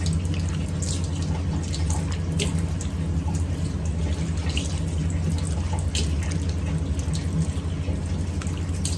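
Bathroom sink tap running steadily while water is splashed onto the face to rinse off face wash, with scattered small splashes.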